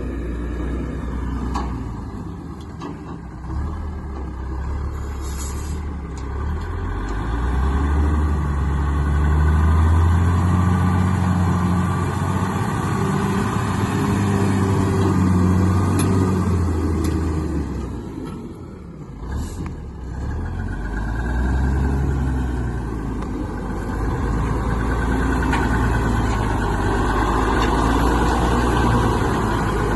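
Plow truck's engine running as it drives, its pitch rising and falling as the revs change, easing off briefly about two-thirds of the way through before picking up again.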